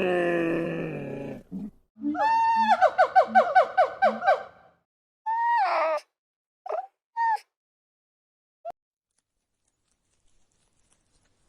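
Several different animal calls, one after another: a long call falling in pitch, then a quavering call that pulses rapidly, then a few short calls.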